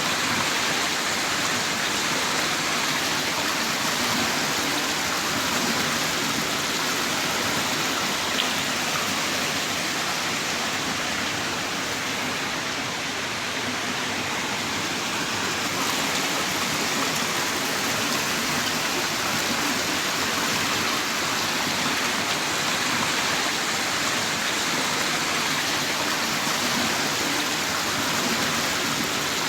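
Heavy rain pouring steadily in a dense, even hiss, with faint individual drops ticking now and then.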